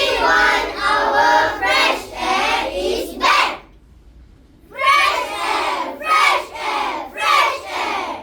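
A group of children reciting together in unison, a chanted choral recitation in two runs of phrases with a short pause about halfway through.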